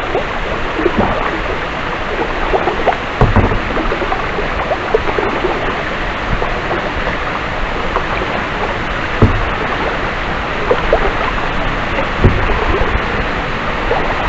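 Kayak paddle strokes splashing and dripping over a steady rush of flowing water, with three low thumps, about three, nine and twelve seconds in.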